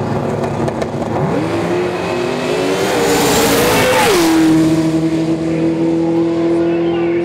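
Twin-turbo 632-cubic-inch big-block Ford V8 drag-racing Mustang at full throttle down the strip. The engine note climbs steadily, is loudest as the car passes about three to four seconds in, then drops in pitch and holds steady as the car runs away.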